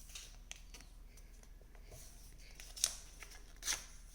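A sheet of paper being folded and creased by hand: faint rustling with short crisp crackles, two louder ones about three seconds in and near the end.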